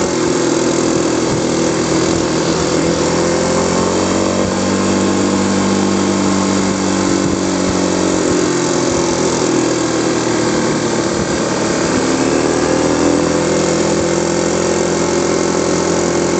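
Kawasaki KLX250S's single-cylinder four-stroke engine running steadily while the bike is ridden downhill, its pitch dipping and rising gently a few times with the throttle, over a steady rush of wind noise.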